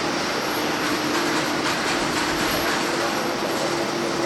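Jet airliner engines running loud and steady: a broad roar with a steady low hum and a faint high whine running through it.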